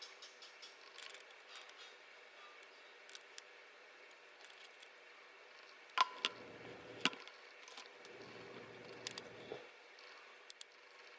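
Small clicks and taps of tools and parts being handled on a Canon PowerShot S110 compact camera under repair, with a sharper click about six seconds in followed by two short stretches of scraping or rubbing.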